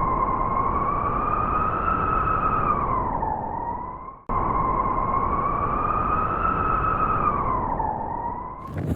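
Howling wind: a whistling tone that slowly rises and sags over a rushing noise. The same howl of about four seconds is heard twice in a row, cutting off and starting again about four seconds in.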